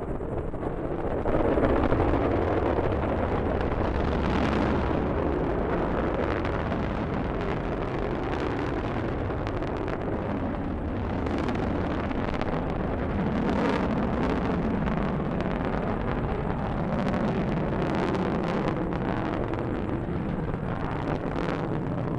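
Delta II rocket roaring at liftoff: a steady, deep rumble broken up by sharp crackles, swelling louder about a second and a half in and holding.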